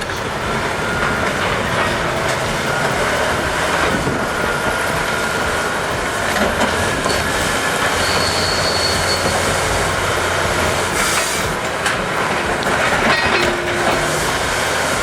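Loud, steady running of heavy machinery with metallic clanking and squealing.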